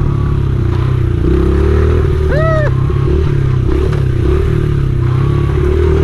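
Honda XR70R pit bike's small four-stroke single-cylinder engine running while ridden, its revs dipping and picking up again. A brief high-pitched sound rises and falls in pitch about halfway through.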